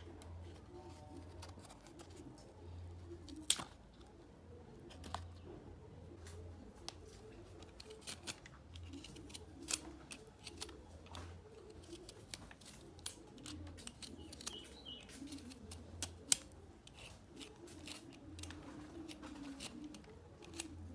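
Irregular sharp clicks and snips of kitchen work, the loudest about three and a half seconds in, while a dove coos repeatedly in the background.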